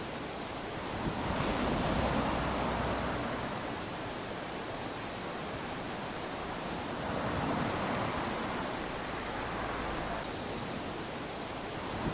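Small waves lapping onto a sandy shore, a steady hiss of surf that swells with each wash, three times, about every five seconds.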